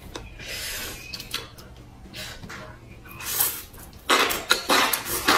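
Close-miked biting and chewing of spice-coated enoki mushrooms, loud dense wet bursts starting about four seconds in. Before that, a few light clicks and rustles as the skewers are handled.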